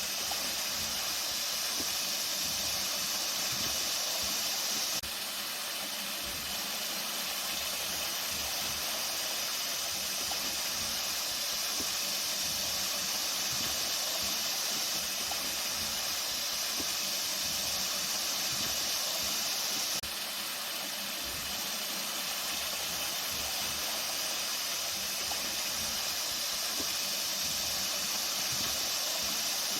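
Water flowing steadily, a continuous hiss of running water with no pauses. It dips slightly in level twice.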